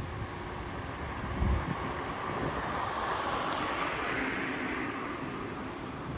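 A vehicle passing along the street, its noise swelling to a peak mid-way and fading, with a short low thump about a second and a half in. Insects chirr steadily in the background.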